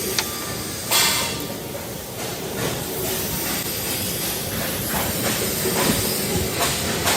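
Steady hissing noise with a few short knocks and surges, typical of machinery in a metal workshop.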